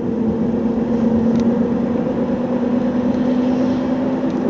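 Steady droning hum inside a moving Nissan Leaf's cabin, with a steady tone over the road noise; the owner calls it an unreal hum and takes it for a worn wheel hub bearing.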